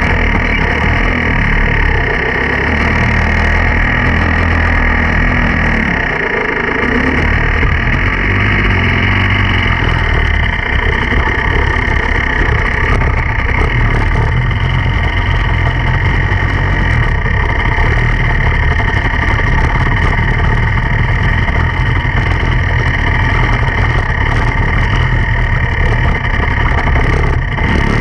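Dirt bike engine running continuously under load, its revs rising and falling.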